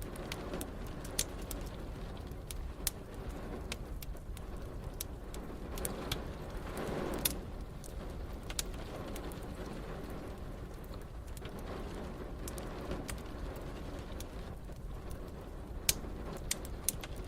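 Wood fire crackling with scattered sharp pops over steady rain and a low rumble, with a short swell of noise about seven seconds in.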